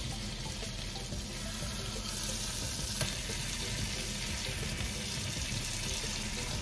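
Ground pork patties sizzling steadily in oil in a nonstick frying pan on a lowered heat setting, with a light tap of the spatula about three seconds in.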